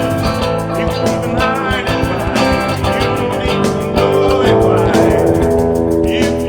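Band music with guitar over a steady drum beat, played as an improvised jam.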